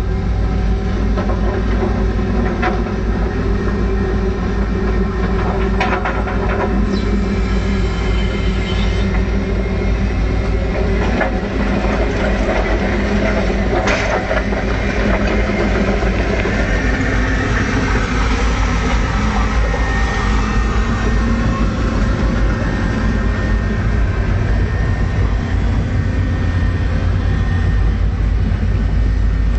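Hydraulic excavator's diesel engine running steadily under working load, with a few short metallic knocks and squeaks from the machine in the first half.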